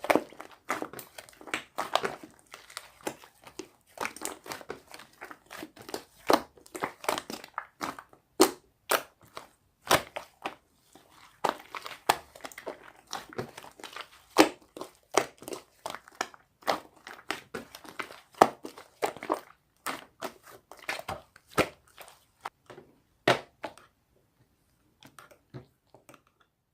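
Slime being squished and poked by hand, giving a dense, irregular run of crackles, pops and clicks that thin out to a few faint ones near the end.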